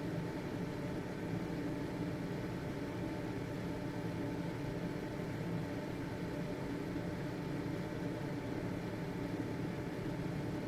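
Household ventilation fan running steadily: an even whooshing air noise with a low motor hum underneath.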